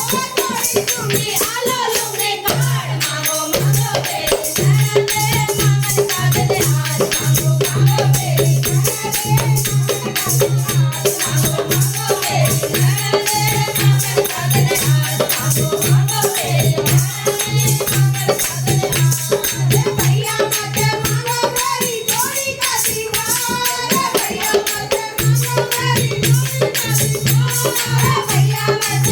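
Hindi devotional bhajan: a woman sings a wavering melody over busy rhythmic percussion and a held low drone note, which drops out briefly near the end.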